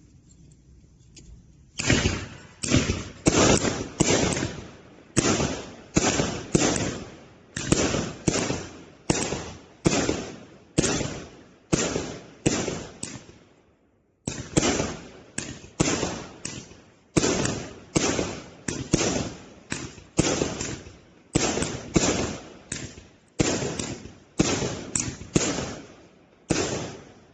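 A 110-shot consumer firework cake of 0.8-inch calibre firing its shots one after another, about one or two a second. The shots start about two seconds in, with a short break around the middle.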